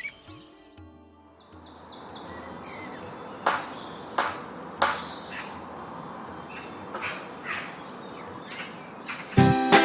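A bird calling over and over in short, harsh calls, roughly every two-thirds of a second, the first few loudest, over soft background music; the music grows suddenly louder near the end.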